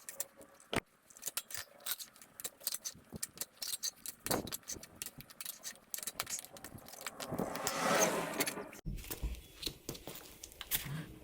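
Metal tire spoons clicking and clinking against a spoked dirt bike rim as the tire bead is levered off in small bites. The loudest sound is a longer scraping rush about eight seconds in, as the tire rubber is worked over the rim.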